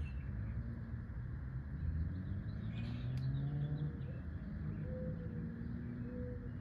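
Outdoor ambience: a steady low rumble with a few short bird chirps. A low engine hum swells and fades about two to four seconds in, and short mid-pitched calls repeat near the end.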